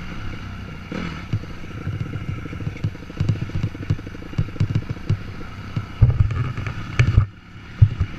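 Dirt bike engine running on a trail ride, its exhaust pulsing fast, with scattered clattering knocks; the engine note drops away briefly near the end.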